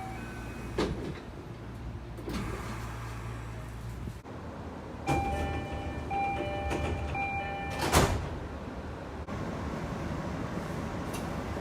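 JR local train's door chime sounding a repeated steady beep for a couple of seconds, then the sliding passenger doors shutting with a single loud thud.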